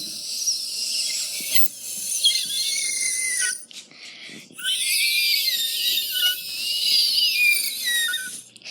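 A person making high-pitched squealing, squeaky vocal noises that waver and glide in pitch. They come in two long stretches, with a short break a little after the middle.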